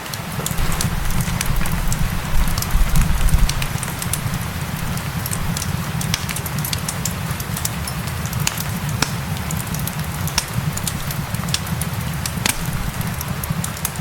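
Wood fire crackling, with many sharp pops, over a steady hiss of gentle rain. A low rumble swells in the first few seconds, then settles.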